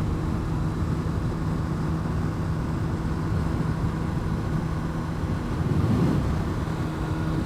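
Honda CBR600RR inline-four engine running steadily while riding, heard through the helmet mic with wind and road noise. About six seconds in its pitch briefly rises and falls.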